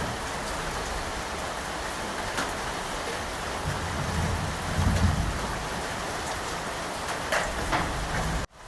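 Steady rain pattering, with a low rumble of distant thunder swelling and fading about halfway through and a few louder drops near the end. The sound cuts out abruptly just before the end.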